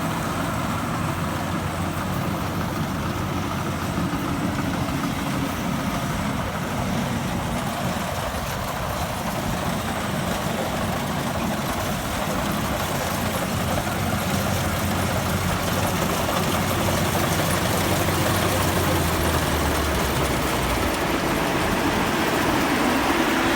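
Rice combine harvester engine running steadily with its machinery in the field, a low drone that grows slightly louder toward the end.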